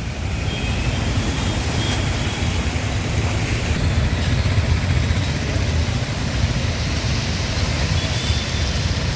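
Street traffic: vehicles running past with a steady, rumbling noise of engines and tyres.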